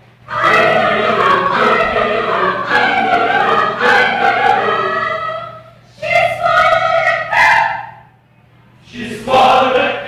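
A group of voices performing together in unison, choir-style. There is a long phrase, then two held notes, a short pause, and a new phrase starting near the end.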